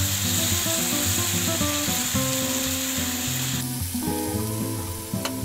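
Taro-stolon curry sizzling in a frying pan, a little water just added to the hot masala, with background music underneath. The sizzle cuts off sharply about two-thirds of the way through, leaving the music, and a single click follows near the end.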